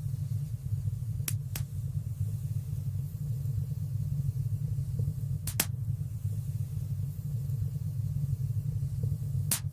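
Wood fire burning in a fireplace: a steady low rumble with a few sharp crackling pops, one pair about a second in, a double pop just past the middle, and one near the end.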